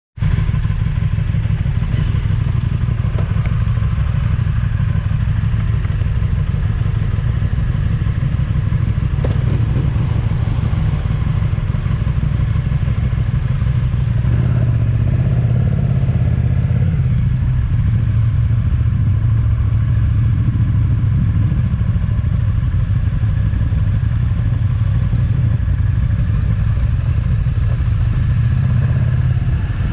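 Motorcycle running steadily on the road, heard as a constant low rumble with no change in engine speed.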